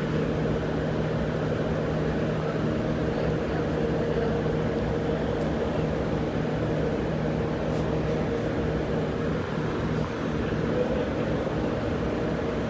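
Bombardier B-series electric train standing still with its onboard equipment humming steadily, a low tone and a higher tone held constant over a background hum.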